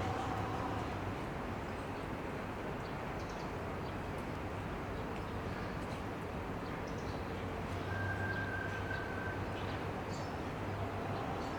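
Outdoor city park ambience: a steady hum of distant traffic with scattered faint bird chirps, and a brief steady high tone about eight seconds in.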